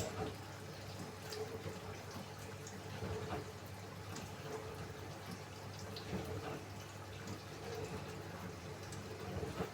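Samsung AddWash front-loading washing machine in its drain-and-spin cycle: a steady low hum under water sloshing and dripping, with a faint tone that swells about once a second as the drum turns slowly.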